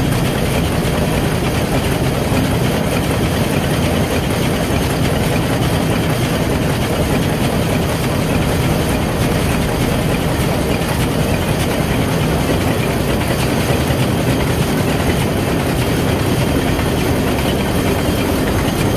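Hanshin marine diesel main engine running steadily at constant speed, a dense, loud, unchanging mechanical din with a low hum underneath.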